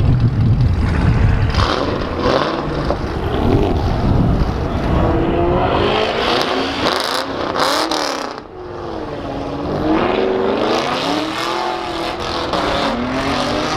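Car engines at a car meet: a deep exhaust rumble at first, then an engine revved over and over, its pitch rising and falling in repeated swells, with a short lull about eight seconds in before the revving resumes.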